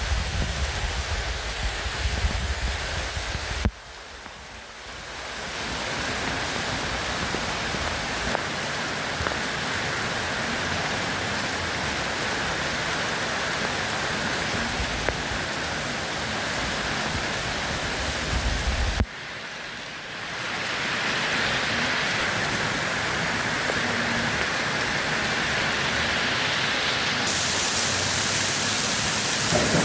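Steady rain falling, an even hiss of drops on surfaces. The sound drops suddenly twice, about four seconds in and again near the middle, then swells back as the recording changes.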